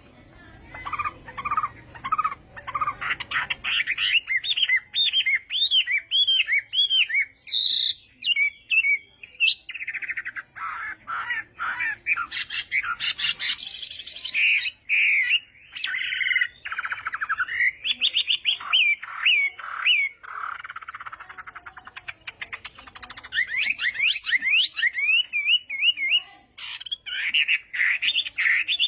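Chinese hwamei (họa mi) singing a long, varied song of rapid repeated whistled phrases that slide up and down, the full challenge song that keepers train for.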